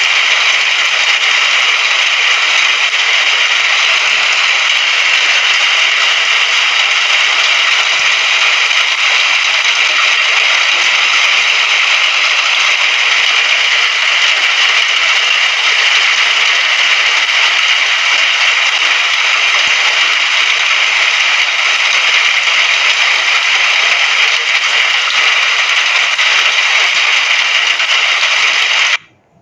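Steady, dense rain hiss that cuts out suddenly for a moment near the end.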